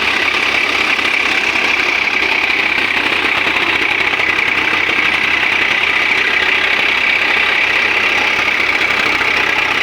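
Swaraj 744 FE tractor's diesel engine running steadily at low speed, with an even, regular low chugging.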